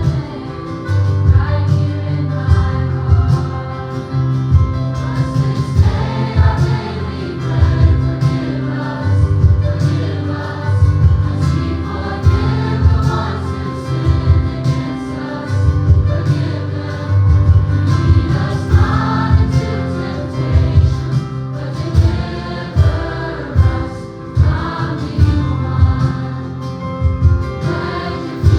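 Gospel choir singing with band accompaniment: a strong bass line and a steady drum beat under the voices.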